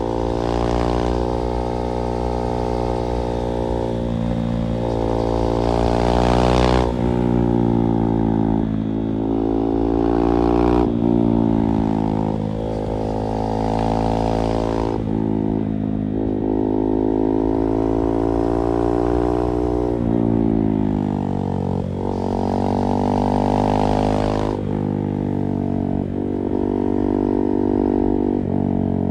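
KTM 390 Duke's single-cylinder engine through an IXIL slip-on exhaust, riding along with the revs climbing and then dropping sharply through gear changes, about every four to five seconds.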